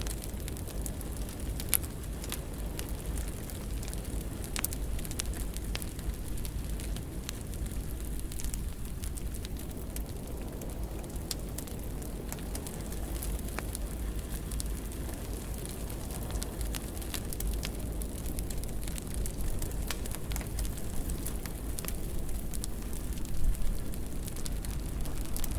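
Fire burning in a fireplace: a steady low rumble of flames with scattered crackles and pops, a sharper pop about two seconds in and a brief flurry of louder pops near the end.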